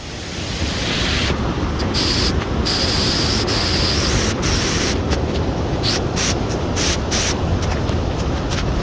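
Flash-flood water rushing with mud and debris: a loud, steady rush of noise.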